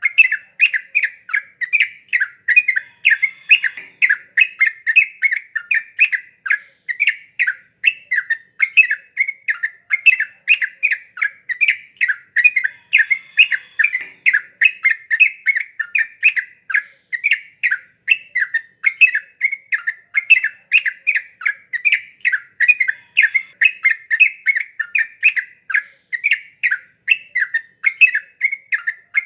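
Yellow-vented bulbul (trucukan) singing busily: an unbroken run of short, repeated notes, about two or three a second.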